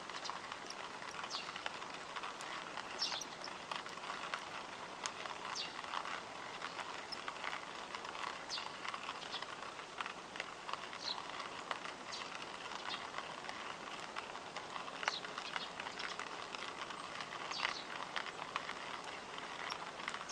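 Wood campfire crackling, with irregular sharp pops and snaps over a soft steady hiss of burning.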